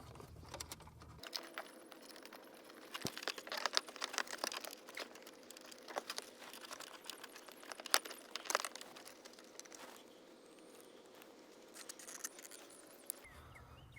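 Rustling of wiring and plastic with scattered clicks and taps as the CarPlay module and its wire harness are pushed into place behind the dash rail. A sharp click comes about eight seconds in.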